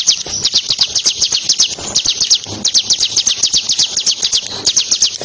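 Ciblek (prinia) singing a fast, unbroken trill of short, sharp downward-sliding notes, about ten a second, in the rapid 'ngebren' style.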